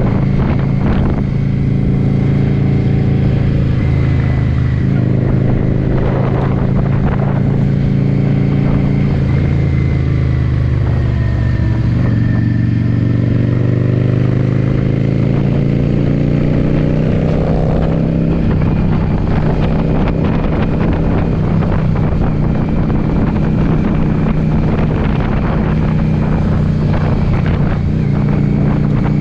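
Yamaha V-Star cruiser's V-twin engine running at road speed under heavy wind noise on the microphone. The engine pitch drops about ten seconds in, then climbs steadily as the bike accelerates, and shifts down again near eighteen seconds.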